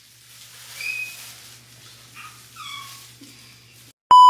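A few faint, short high-pitched calls, some falling in pitch, then near the end a loud steady censor bleep tone cuts in abruptly, blanking out all other sound.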